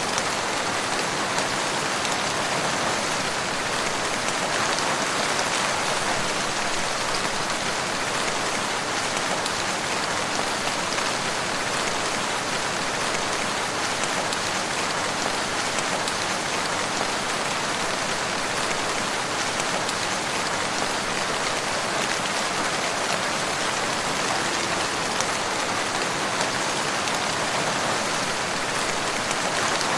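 Steady rain falling, a dense, even patter of raindrops with no let-up.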